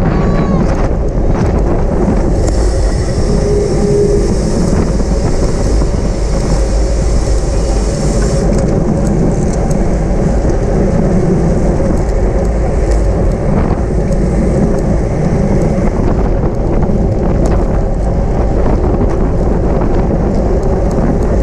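Wind buffeting a camera microphone on a bicycle ridden at race speed, a steady loud rumble with road noise underneath; a brighter hiss joins for about six seconds a couple of seconds in.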